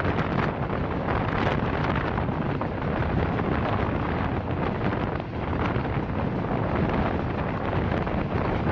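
Steady rush and rumble of a passenger train under way, with wind buffeting the microphone.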